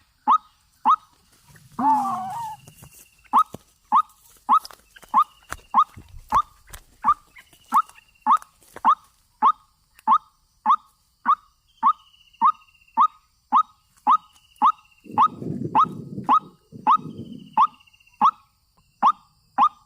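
White-breasted waterhen (ruak-ruak) lure call: a sharp short note repeated evenly about twice a second, with a fainter, higher falling note every second or two. A louder bending call comes about two seconds in, and a low muffled rustle near the end.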